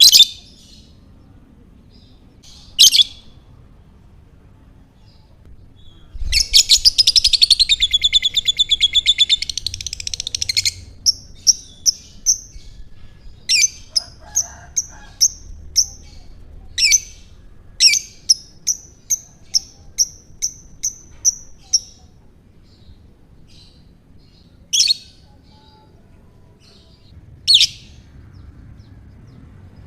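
Lovebird calling: a few sharp single shrieks, then a fast rattling chatter of about four seconds (the long trill called 'ngekek'). This is followed by a run of short, evenly spaced chirps at about two a second and a few more sharp calls.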